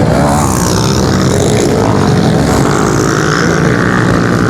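Several pit bike engines racing at full throttle, their pitch rising and falling as the riders work the throttle.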